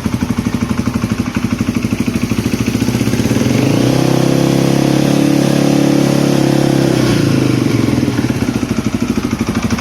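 Polaris Predator 500 ATV's single-cylinder four-stroke engine idling, revved up a few seconds in, held there for about three seconds, then let back down to idle.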